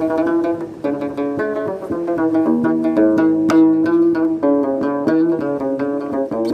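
A plucked string instrument playing a melody of quick, sharply struck notes, several a second.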